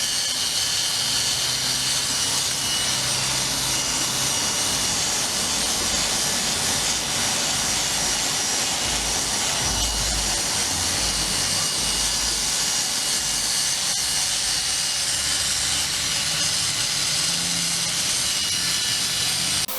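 Wire wheel spinning on an air-powered tool and scrubbing caked rust off an anvil: a steady, loud high hiss and whir that holds without a break.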